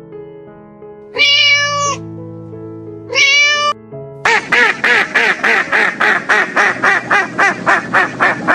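A cat meowing twice over soft background music, followed about four seconds in by a fast run of short animal calls, about four a second.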